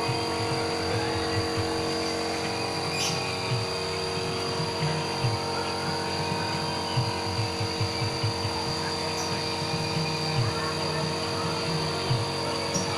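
A steady mechanical hum, with several fixed tones over a wavering low rumble and a few faint clicks.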